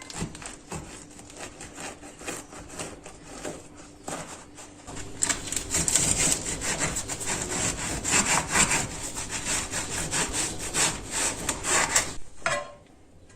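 Knife cutting back and forth on a wooden cutting board in rapid sawing strokes, softer at first and louder from about five seconds in, stopping about a second before the end.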